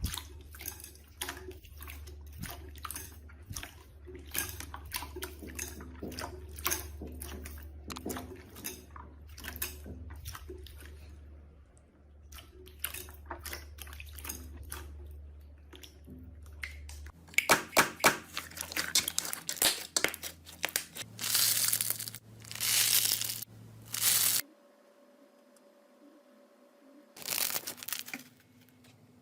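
Slime being handled and pressed: rapid crackling clicks at first, then several louder drawn-out crunching squeezes, with a short quiet gap before a last crunch near the end.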